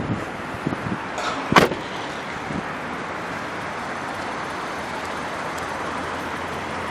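A single sharp knock about one and a half seconds in, after a few lighter knocks, then a steady even hiss of outdoor background noise.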